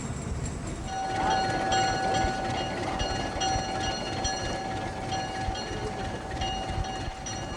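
Train on a metre-gauge line, with a low rumble and a steady high-pitched whine that sets in about a second in and holds, together with a higher ringing that comes and goes.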